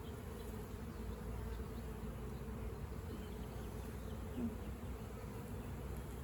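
Honey bees buzzing steadily in a low hum from an opened hive as its brood frames are inspected.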